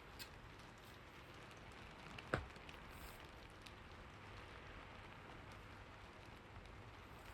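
Steady, soft rain hiss. A single sharp tap stands out about two seconds in, with a fainter tap just after the start.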